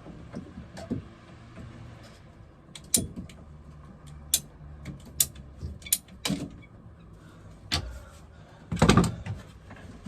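A string of sharp clicks and knocks, with a louder clatter near the end, from a water pump and its plastic pipework being handled and fitted into place.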